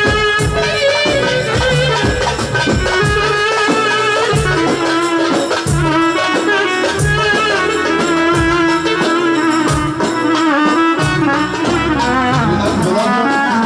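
Egyptian sha'bi wedding music played by a band, without singing: a wavering lead melody over drums and hand percussion.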